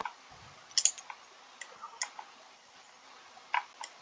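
Light, sharp clicks, about seven of them in small clusters, typical of a computer mouse being clicked while units are moved in a strategy game.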